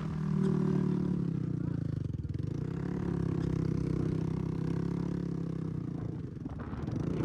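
Dirt bike engine running at fairly steady revs, easing off briefly about two seconds in and then holding again.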